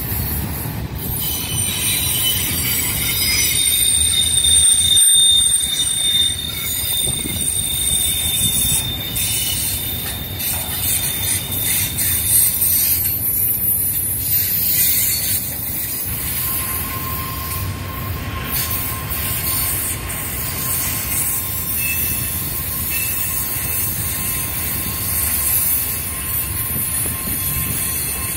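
Double-stack container freight train rolling past, its wheels squealing on the rail in high, drawn-out tones over a steady rumble. A lower squeal tone joins about halfway through.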